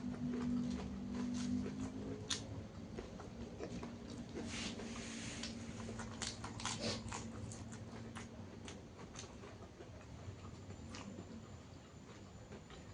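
Close-up eating sounds: chewing and crunching through a meal of fried fish and raw vegetables, with many small wet mouth clicks and a longer crunchy stretch about five seconds in.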